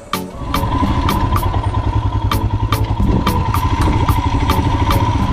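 Royal Enfield Himalayan's single-cylinder engine running steadily as the motorcycle is ridden, coming in about a third of a second in.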